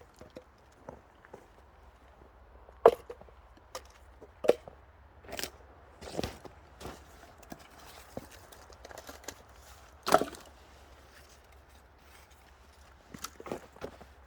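Axe splitting kindling wood: two hard strikes about 3 and 10 seconds in, with lighter knocks and clatters of wood pieces between and near the end.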